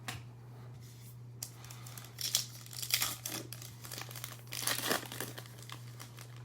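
A foil-wrapped trading-card pack being torn open and its wrapper crinkled, in a few irregular rustling bursts.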